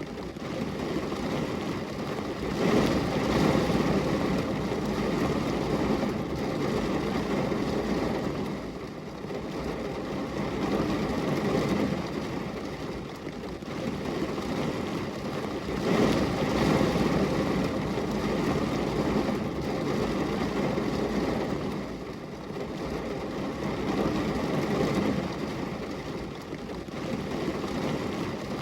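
Steady rain pattering on a glass window, swelling and easing every several seconds.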